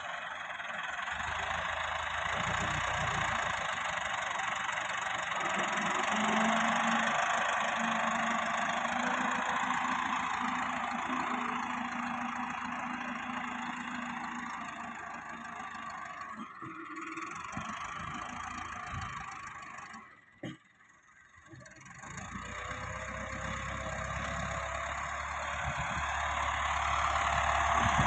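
Massey Ferguson 385 tractor's diesel engine running steadily, dropping out briefly about two-thirds of the way through.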